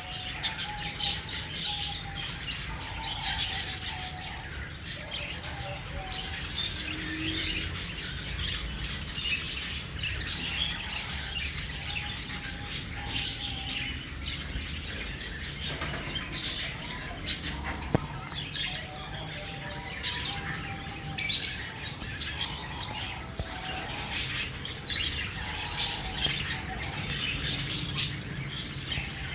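A flock of small caged parrots chirping and chattering, with many short calls overlapping throughout.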